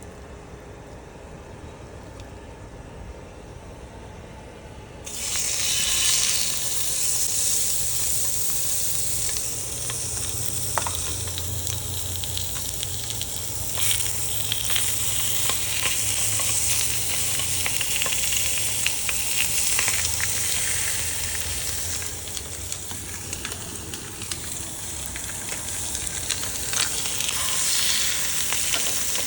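Food sizzling in a hot frying pan. It starts suddenly about five seconds in after a quieter stretch and keeps going, with occasional light clicks and scrapes of stirring.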